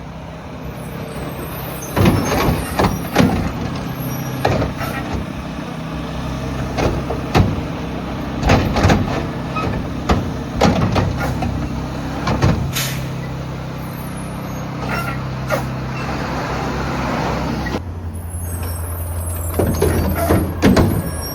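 Mack LR garbage truck's diesel engine running at a collection stop, with repeated bangs and clatter as bins and bags are loaded and dumped, and air-brake hiss. About 18 s in, the engine note drops and steadies.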